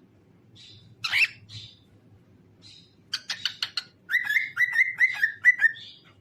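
Pet cockatiel chirping and singing: a few soft chirps, a loud call about a second in, then from about three seconds a quick run of sharp clicky notes followed by about six short repeated whistled notes that each dip in pitch.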